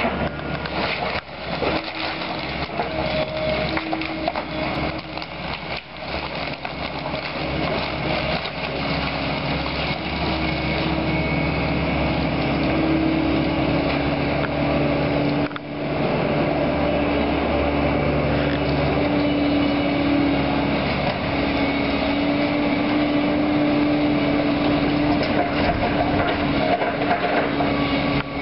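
Heavy demolition excavator running steadily under load, its engine tone rising and falling a little, with the constant crunch and clatter of wood and debris being broken and moved.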